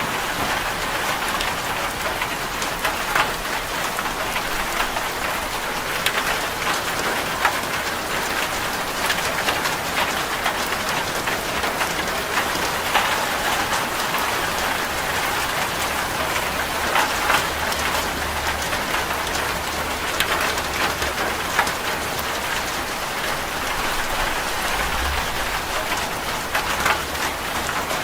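Rain falling steadily on a corrugated zinc roof: a dense, even hiss with many small sharp taps of individual drops on the metal.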